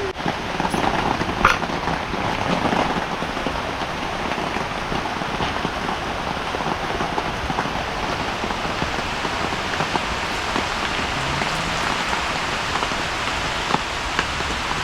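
Heavy rain falling steadily: an even, dense hiss of rain with a few sharper drop hits scattered through it.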